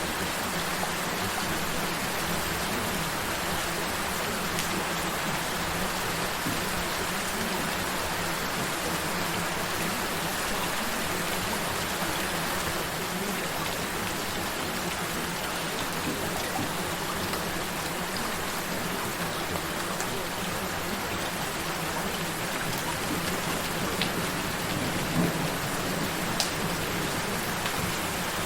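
Steady rain, with a few sharper drops near the end, and a low steady tone underneath.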